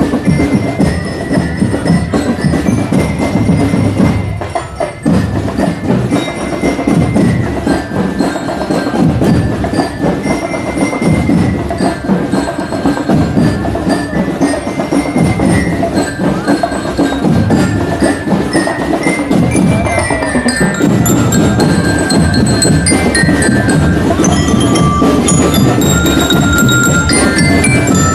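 Marching drum and bell-lyre band playing: snare and bass drums beat a steady cadence under a ringing glockenspiel melody.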